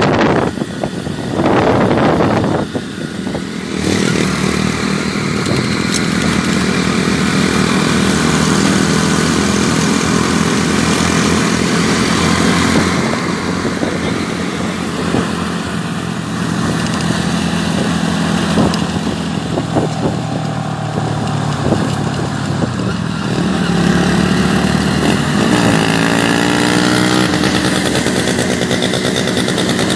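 Motorcycle engine running steadily under way, its note rising and falling briefly about 25 seconds in as the throttle changes.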